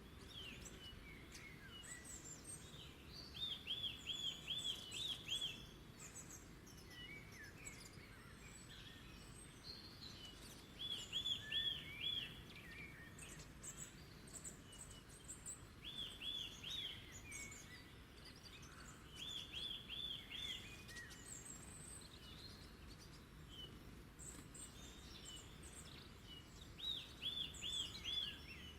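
Wild birds singing. One bird repeats a quick phrase of five or six bright notes about every five seconds, five times in all, while other birds chirp higher and more sparsely over a faint, steady low rumble.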